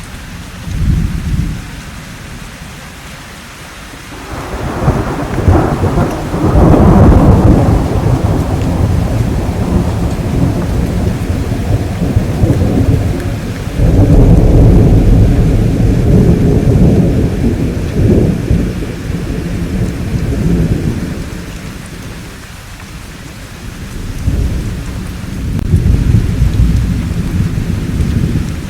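Thunderstorm: rolling thunder in several long, low rumbles over steady rain. A long roll builds from about four seconds in, a fresh loud peal breaks about fourteen seconds in, and another rumble swells near the end.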